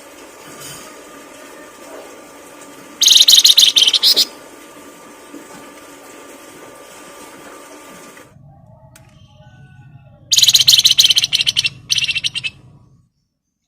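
Songbird singing loud, rapid trills about a second long: one about three seconds in and two more near the end, over a faint steady background hum that changes about two-thirds of the way through.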